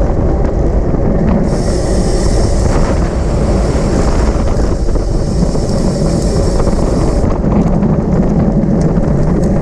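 Heavy wind noise on the microphone while riding a road bicycle at race speed. A high hiss or buzz sits above it from about a second and a half in until about seven seconds in.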